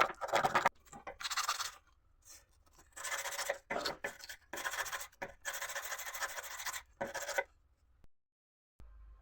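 Rasping, scraping strokes in bursts of about a second, as the tip of a damaged screwdriver is reshaped against an abrasive. They stop about seven and a half seconds in.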